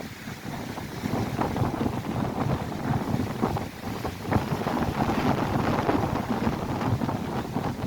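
Strong wind buffeting the microphone in uneven gusts, over the rush of Lake Erie waves breaking on the shore.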